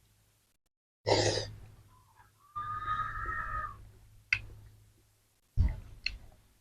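Eating noises from a bowl of noodle soup: a short slurp about a second in, then a steady whistle-like tone lasting about a second, and three sharp clicks near the end.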